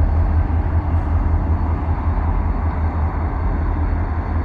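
Freight train rolling past with a steady, heavy low rumble.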